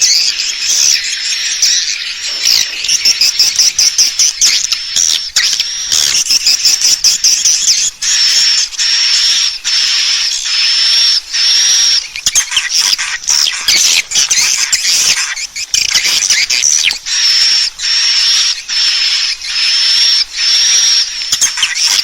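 Swiftlet lure call: dense, high-pitched twittering chirps, settling into a run of sharp high chirps repeating about once a second. This is the calling sound played from swiftlet houses to draw swiftlets in to roost.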